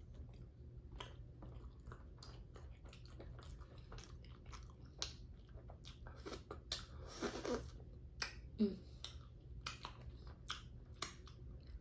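Close-miked chewing of tender chicken in curry, with irregular wet mouth smacks and clicks.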